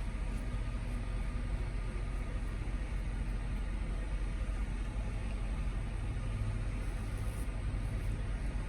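Steady low rumble of idling vehicle engines, coming in through the open windows of a truck cab.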